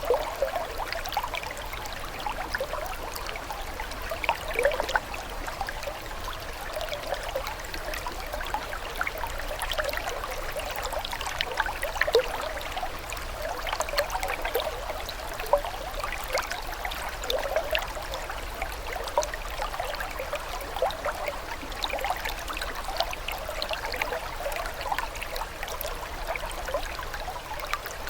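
Running water trickling and burbling steadily, with a constant patter of small bubbling splashes.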